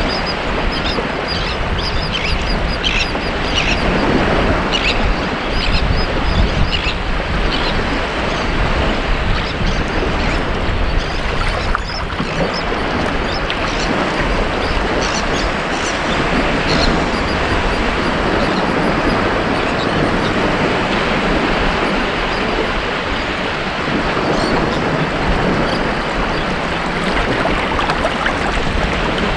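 Ocean surf breaking and washing up on a beach, a steady rushing sound that swells every few seconds, with short bird calls over it now and then, most in the first several seconds.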